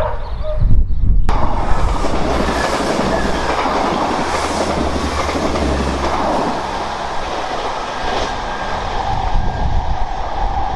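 Diesel multiple unit passing close by at speed, a steady rumble of engine and wheels with a clickety-clack over the rails. It starts suddenly about a second in.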